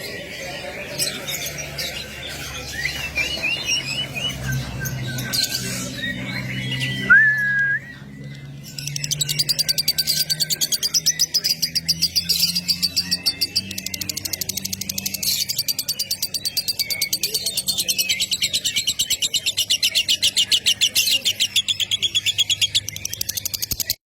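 A small songbird singing: assorted chirps and short whistles for the first several seconds, then a long, fast, evenly pulsed trill that keeps going until it cuts off suddenly near the end.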